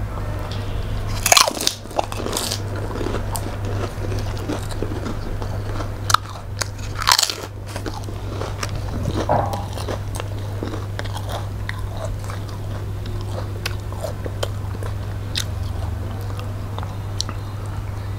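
Close-miked eating sounds from two people eating by hand: crunching bites and chewing, with many small scattered clicks, over a steady low hum.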